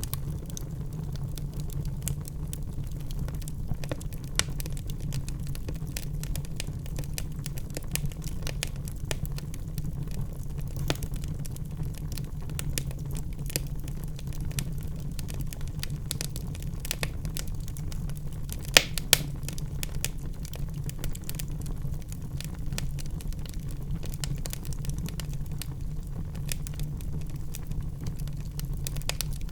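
Wood fire burning in a fireplace, crackling steadily with many small sharp snaps over a constant low rumble, and two louder pops about two-thirds of the way through.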